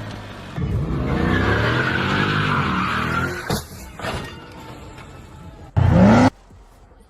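A car skidding with its tyres squealing and its engine running, followed by two sharp knocks of an impact. Near the end comes a short, loud sound rising in pitch.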